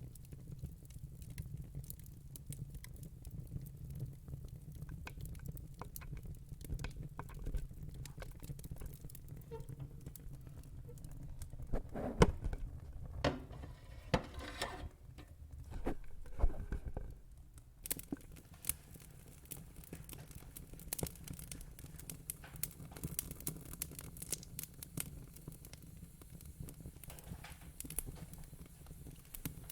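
Wood fire in a fire pit crackling, with scattered sharp pops over a steady low rumble. The crackling grows louder and denser from about 12 to 17 seconds in, then settles back.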